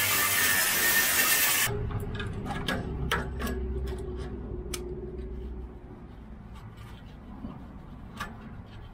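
Power saw cutting through a rusted exhaust flex pipe, stopping suddenly about two seconds in; scattered light metallic clicks and knocks follow.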